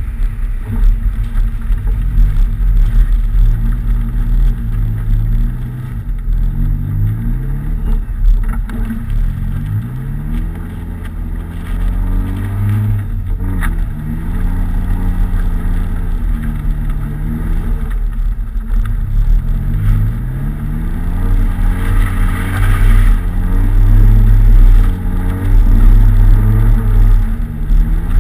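Nissan 200SX engine revving up and dropping back over and over while the car is driven, the pitch climbing and falling every few seconds over a steady low rumble.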